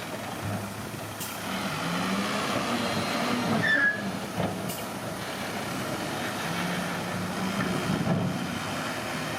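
Diesel engine of heavy earthmoving machinery working, its pitch rising and falling with the load, with a brief high squeal about four seconds in.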